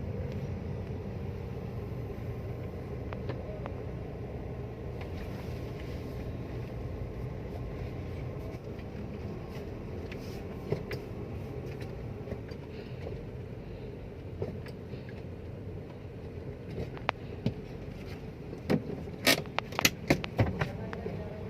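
Steady low mechanical rumble of a car going through a car wash, with a few sharp clicks and knocks near the end.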